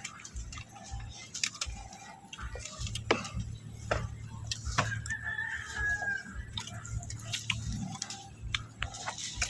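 A rooster crowing once, a held call about five seconds in, over scattered sharp clicks.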